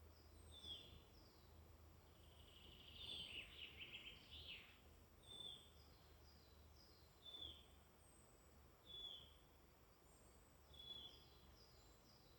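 Faint woodland birdsong from several small songbirds. One bird repeats a short down-slurred call every second and a half or so, thin high falling notes sound between them, and a brief warbling phrase comes about three seconds in.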